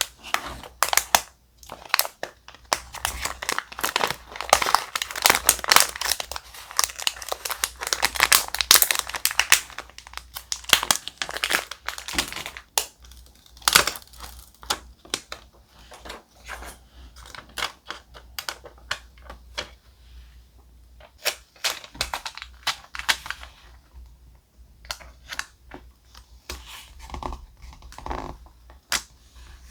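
Thick paper being handled close up, crinkling and rustling, with some tearing. Dense and busy for about the first twelve seconds, then thinning to scattered taps and rustles.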